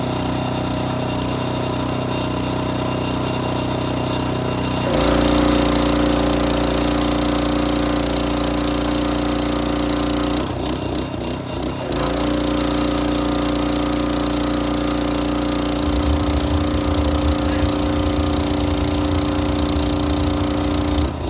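Gas engine of a hot water pressure washer running steadily. About five seconds in the trigger is pulled: the engine takes load and high-pressure spray hisses. The spray stops briefly around ten seconds in and then resumes, and a pulsing low rumble joins it from about sixteen seconds.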